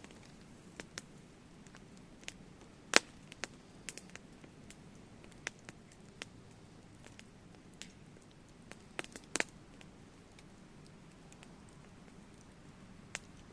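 Wood campfire crackling, with irregular sharp pops and snaps over a faint hiss; the loudest pops come about three seconds in and again around nine seconds in.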